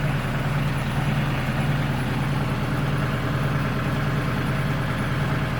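RK37 compact tractor's engine running steadily at an even pitch.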